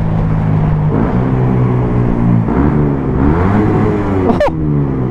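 Suzuki GSX-S 125's single-cylinder engine through a Mivv GP Pro exhaust, accelerating on the road. The pitch climbs about a second in, holds, climbs again and rises and falls with gear changes, then drops as the throttle is rolled off about four seconds in. A short sharp squeak comes about four and a half seconds in.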